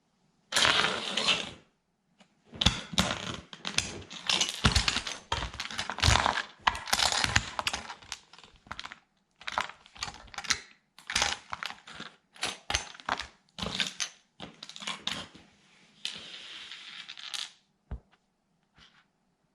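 Plastic toy truck cracking and crunching under a sandal sole, in irregular bursts of crackling and sharp snaps. A few last clicks come near the end.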